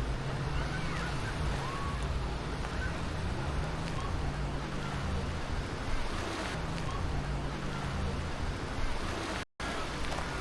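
Black Sea surf washing on the beach with wind on the microphone, under a low steady engine-like hum, and faint distant voices. The sound cuts out completely for a moment near the end.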